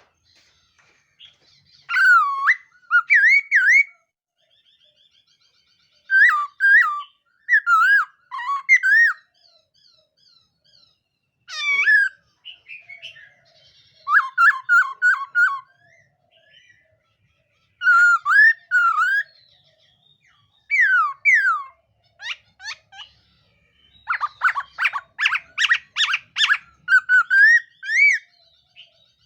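A laughingthrush (khướu mun) singing: loud whistled phrases of a few rising and falling notes, separated by pauses of a second or two, with a quick run of rapid repeated notes near the end.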